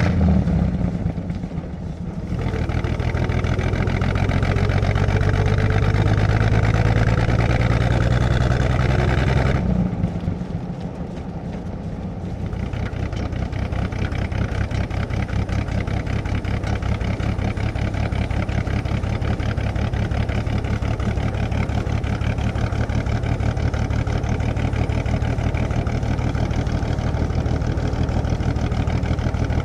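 1937 Plymouth's flathead straight-six engine heard from inside the cabin, driving through the gears. The revs climb steadily for several seconds, drop away briefly at a shift about ten seconds in (and once near the start), then the engine settles into steady running.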